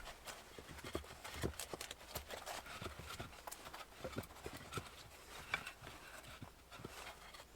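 Irregular light knocks and clicks, several a second with no steady rhythm.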